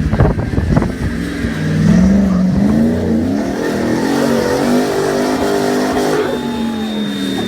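Jeep J-truck engine revving under load, its pitch rising and falling as it crawls over rock, after a second of crackling knocks at the start. A thin, steady high whine comes in about six seconds in.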